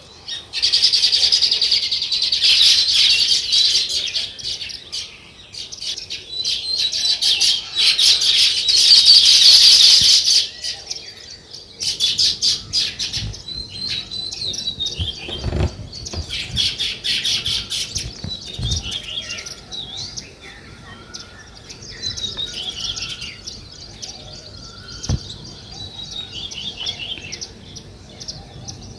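Many small songbirds chirping rapidly and continuously, a dense chatter that is loudest over the first ten seconds and then thins to scattered chirps. A few low thumps come about halfway through.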